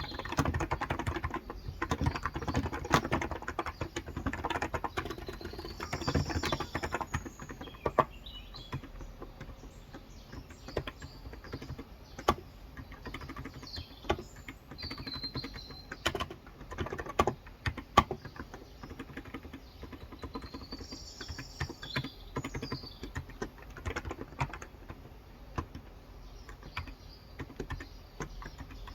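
Typing on a Cox Endeavor 35g electro-capacitive (Topre-style) tenkeyless keyboard: a fast run of keystrokes for the first several seconds, then sparser typing with a few louder single key strikes. Birds chirp in the background a few times.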